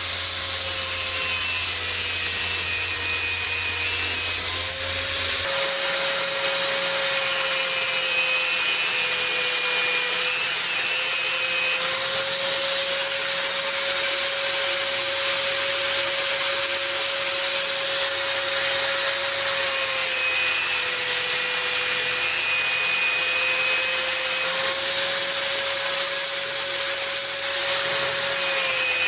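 A handheld electric power tool, such as a grinder or sander, runs continuously against a workpiece with an abrasive rubbing hiss. Its motor tone dips slightly in pitch several times and recovers as it is pressed harder and then eased off. A lower hum in the background stops about five seconds in.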